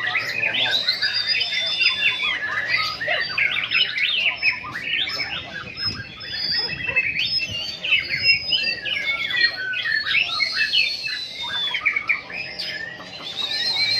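White-rumped shamas singing in competition: a dense, overlapping stream of loud whistled phrases, rapid trills and harsh chattering notes from several birds at once.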